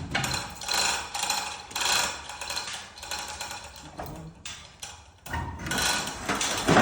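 A metal ratcheting mechanism clicking in repeated bursts, roughly once a second, fading in the middle and picking up again near the end.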